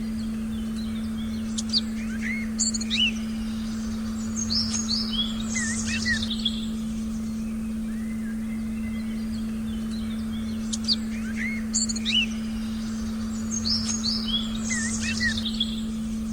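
Songbirds chirping and calling in a forest recording over a steady, unchanging low tone. The same run of bird calls comes twice, about nine seconds apart.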